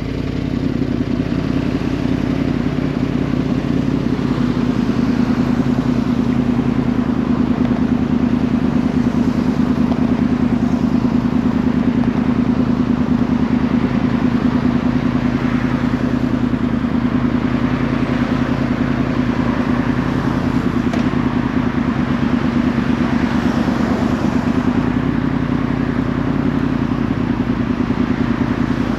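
2010 Yamaha R1's crossplane inline-four running through a Yoshimura exhaust while riding, holding a fairly steady engine speed.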